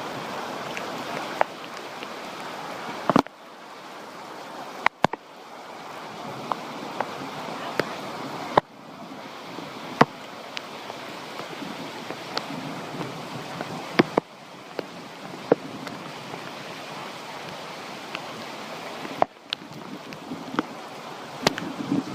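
Heavy storm rain pouring down, a steady hiss with scattered sharp ticks of drops striking nearby surfaces. It breaks off and resumes abruptly several times.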